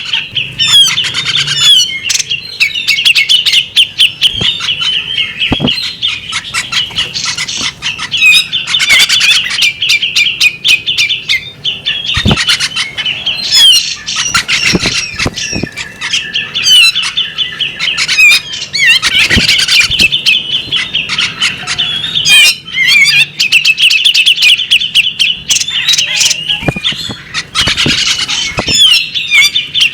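Female magpie robin singing a long, unbroken chattering song of rapid trills and squeaky notes, with many sharp clicks mixed in.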